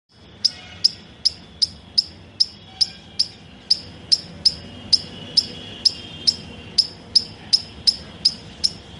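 An animal chirping: short, sharp, high chirps repeated at a steady pace of about two and a half a second, over a faint steady background.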